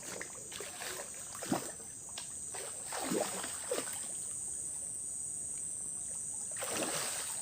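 Forest river water trickling under a steady, high insect drone, with a brief splash of water near the end.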